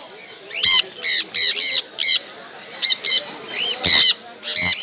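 Caged parrots screeching: about a dozen short, harsh, high-pitched squawks in quick succession.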